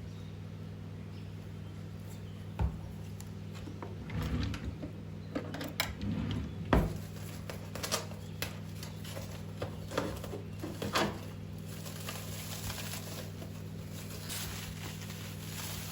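Household objects being handled: scattered light knocks, clicks and rustles, clustered between about 2.5 and 11 seconds in, over a steady low hum.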